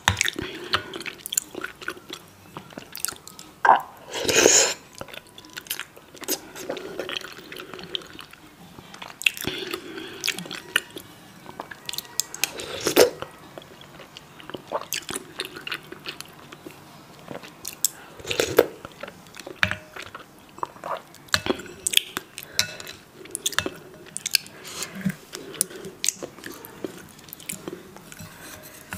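Close-miked chewing and mouth sounds of someone eating spicy instant ramen noodles, with many short clicks and a louder noisy burst about four seconds in.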